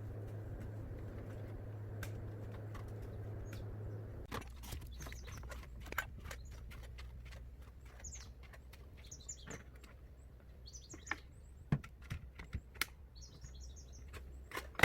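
Small birds chirping in short high bursts, several times over. Many sharp clicks and knocks from something handled close by run through the second half, and a low steady hum stops about four seconds in.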